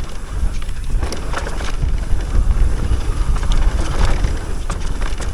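A mountain bike running fast along a dirt trail. Heavy wind buffeting on the microphone makes a steady low rumble, broken by frequent short clattering knocks as the bike rattles over rough ground.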